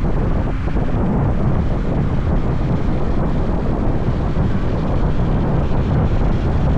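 Steady wind buffeting the microphone of a riding motorbike, a dense low rumble with the bike and road noise mixed in.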